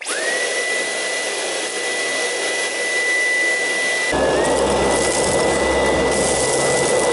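Dyson V11 Animal cordless stick vacuum switching on, its motor spinning up within a fraction of a second to a steady high whine. About four seconds in the whine dips briefly, then steadies, and a louder, lower rumble joins it.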